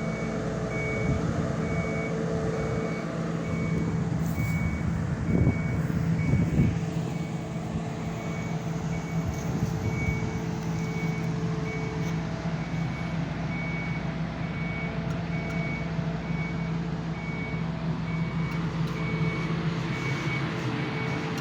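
Heavy machine's diesel engine running steadily while its warning alarm beeps about once a second. A few louder knocks come about five to seven seconds in.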